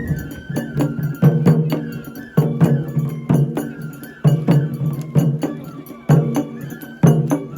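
Japanese festival hayashi music: a high bamboo flute melody over sharp, regularly spaced drum strikes.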